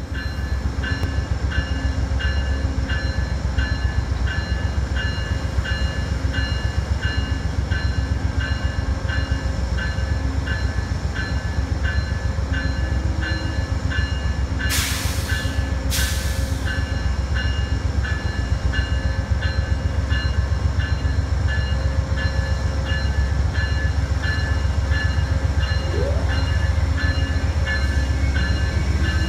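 Amtrak passenger train in motion: a steady low rumble with a regular ticking about twice a second, and two short hisses about halfway through.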